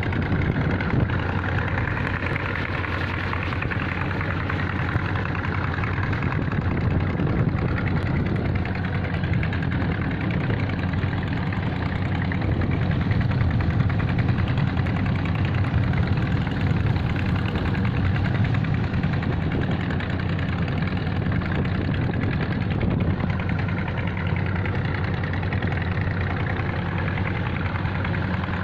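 A ship's engine running steadily with a deep, even hum.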